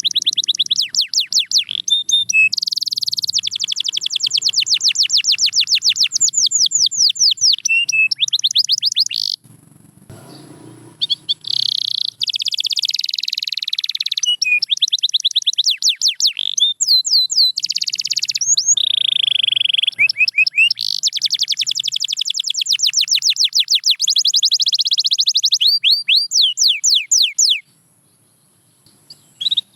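Domestic canary singing: long runs of fast, repeated trill notes that sweep up and down in pitch, with a short break about ten seconds in and a pause near the end.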